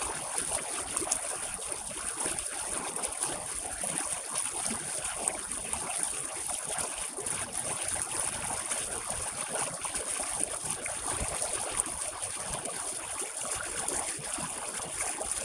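Rain-swollen stream water rushing steadily.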